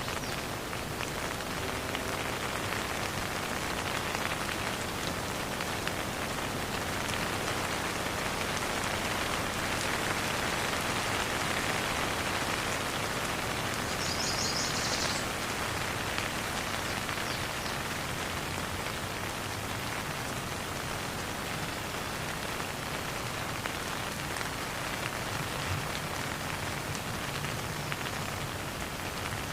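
Steady rain falling, an even hiss of many drops on surfaces, with no thunder.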